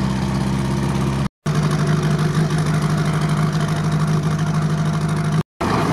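Jeep Willys four-cylinder engine running on the road, heard from inside the open cab, on only three cylinders because one cylinder is dead. The sound drops out twice briefly.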